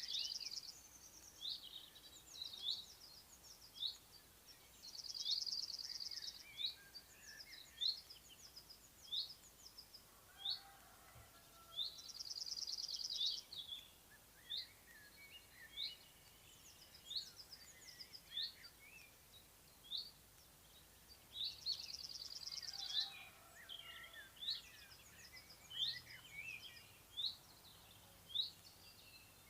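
Several songbirds singing. One repeats a fast, high trill lasting about a second and a half every several seconds, while others give short, high single notes about once a second.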